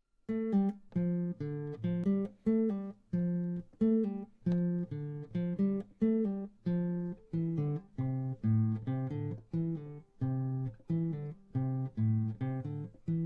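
Acoustic guitar playing an instrumental intro: a steady picked pattern of chords, about two plucks a second.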